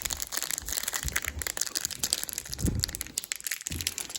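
Crinkling and rustling of handled packaging, with irregular small clicks and a few soft handling thumps, as screws are picked out for mounting a thermostat.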